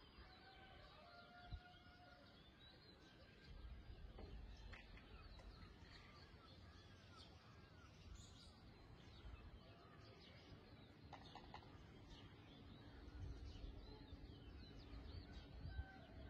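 Faint birds chirping and calling in scattered short notes, over a low steady rumble of background noise.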